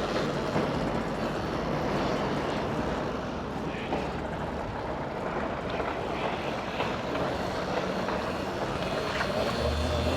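Steady rush of wind and road noise while riding an electric mini bike.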